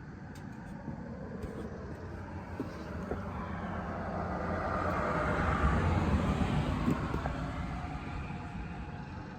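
A motor vehicle passing by, its noise building to a peak about six seconds in and then fading.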